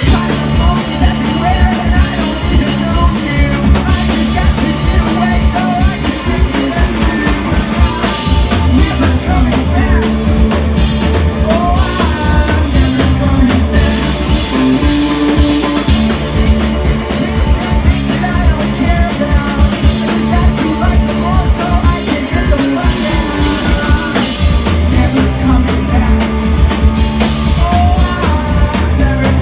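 Live rock band playing loudly: drum kit, electric guitar and bass, with singing.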